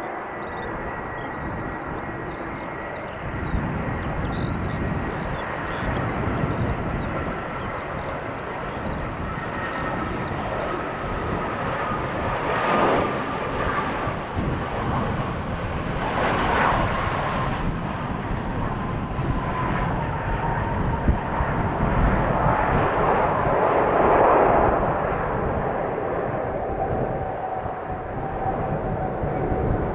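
Jet airliner's engines, a broad roar with a thin whine that falls slowly in pitch throughout as the aircraft moves past. The roar swells in the second half.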